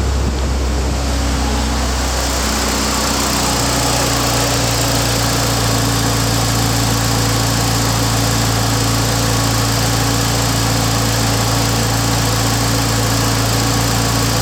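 Suzuki Swift Sport's M16A 1.6-litre four-cylinder engine running steadily, its note settling in the first few seconds after being revved.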